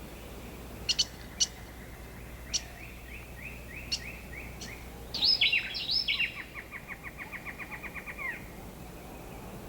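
Birds calling: scattered sharp chirps, then a loud burst of falling whistled notes about five seconds in that runs into a rapid trill of about ten notes a second, lasting about two seconds.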